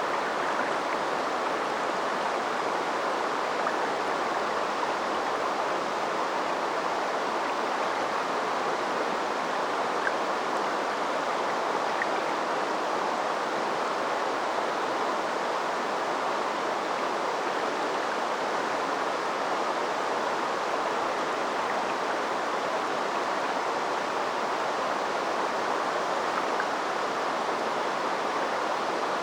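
River water flowing over a shallow stretch: a steady, even rushing and babbling that never lets up.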